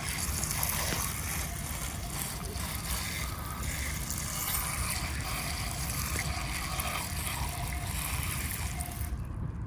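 Water spraying in a steady hiss onto a miniature model car during a wash, cutting off near the end.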